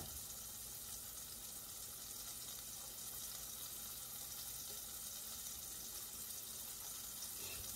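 Impossible plant-based burger patty sizzling in a stainless steel skillet: a faint, steady frying hiss.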